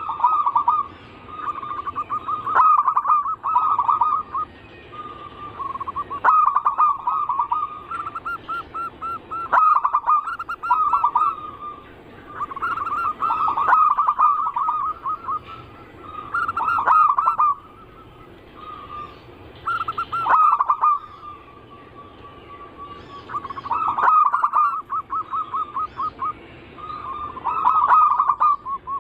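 Zebra doves (perkutut) cooing: repeated phrases of rapid staccato notes, one phrase every two to four seconds, with other birds calling more quietly underneath.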